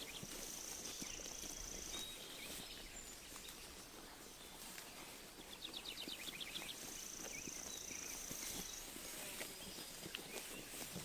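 Sheep grazing close to the microphone, a steady run of soft crisp tearing and chewing of grass. Over it a songbird sings the same phrase twice, about six seconds apart: a quick trill followed by a long, thin high note.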